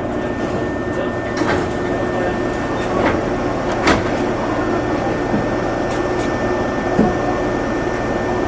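Meitetsu limited express train running: a steady rumble of wheels and running gear with two steady hum tones, one low and one high, and a few sharp clicks and knocks at irregular moments.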